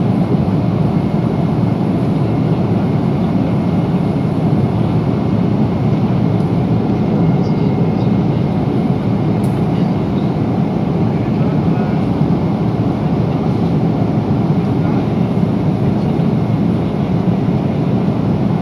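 Steady cabin noise inside a Boeing 777-300 at cruise: the deep, even roar of airflow and jet engines, heaviest in the low range.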